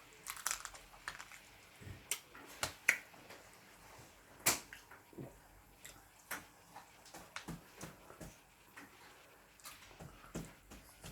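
Someone eating: irregular sharp clicks and smacks of chewing, about one or two a second.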